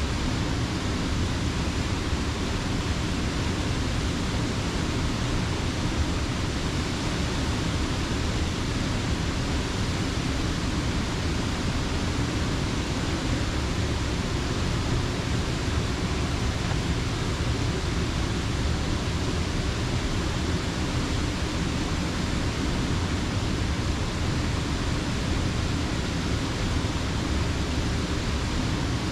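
Steady rushing of creek water, heavy at the low end and unbroken throughout.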